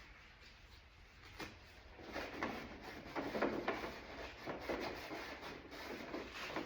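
Irregular strokes of scraping and rubbing on a plastic car door panel as leftover plastic is worked off its surface, starting about two seconds in.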